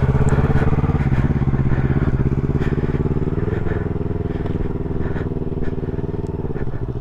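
Yamaha R3's 321 cc parallel-twin engine running at low revs as a beginner rider pulls away; its pitch climbs a little midway and drops near the end as it is shifted into second gear.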